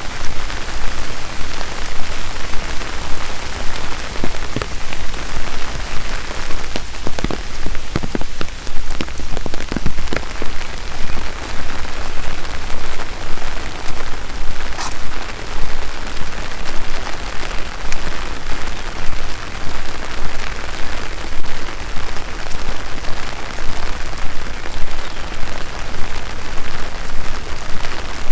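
Steady rain falling, an even hiss of drops, with a few sharper drip clicks around seven to ten seconds in.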